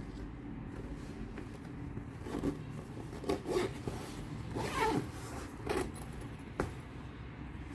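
A zipper on a small bag or pouch pulled in four short raspy strokes, then a single sharp click near the end.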